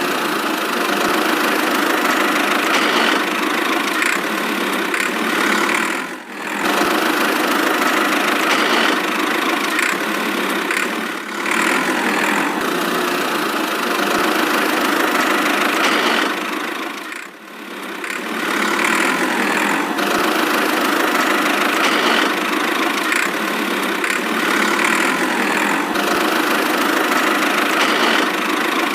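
Small motor running steadily with an engine-like drone, dropping off briefly three times.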